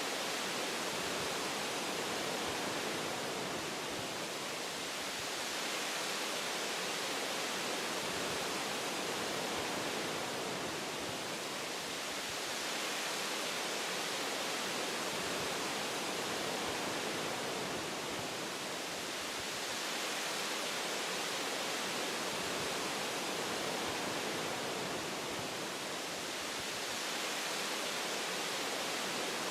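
Wind rushing through forest branches and leaves, a dense, even hiss that swells and eases gently about every seven seconds.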